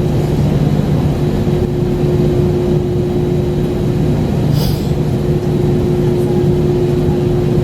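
Steady cabin drone of an Airbus A320 on the ground after landing: a constant hum with a held tone, and a short hiss about four and a half seconds in.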